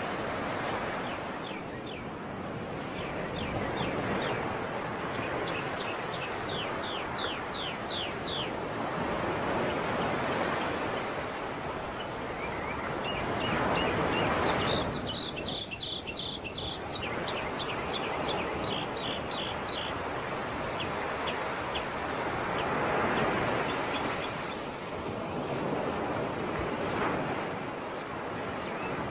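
Sea waves washing ashore in slow swells, with a small songbird singing rapid trills of short, high chirps in three bursts: early on, in the middle, and near the end.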